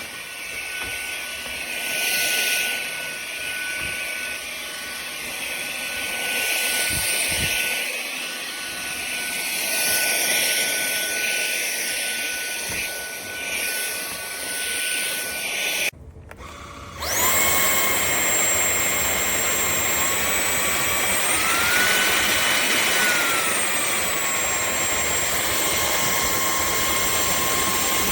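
KCLASO cordless stick vacuum's motor running with a steady whine and the rush of suction air. About two-thirds of the way in it cuts out for about a second and comes back in a different pitch. A little later the pitch steps up for a couple of seconds and then drops back, as when the power setting is raised and lowered.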